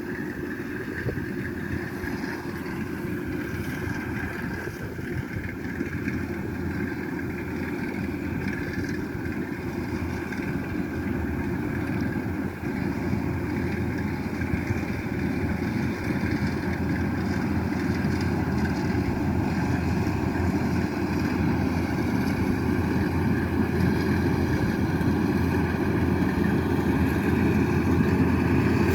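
Diesel engine of a Kubota DC-105X rice combine harvester running steadily, growing gradually louder.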